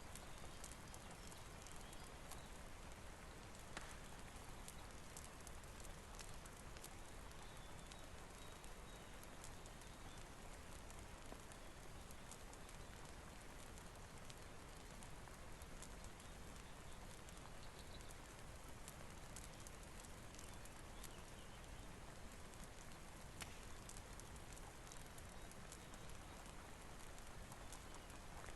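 Faint steady rainfall with scattered small ticks and crackles, as of drops and a fireplace's burning wood.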